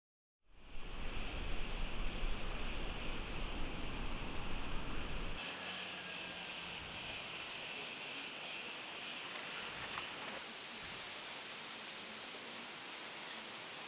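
High, steady insect chorus. It pulses more strongly through the middle, with a low rumble beneath it for the first few seconds, then goes on a little quieter.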